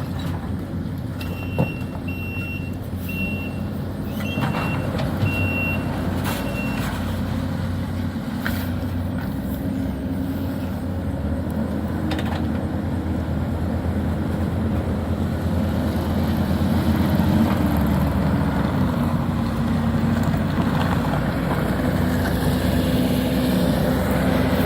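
Heavy diesel demolition machinery running, its engine speeding up partway through, with a backup alarm beeping at an even pace for about the first seven seconds. A few sharp knocks of debris are heard.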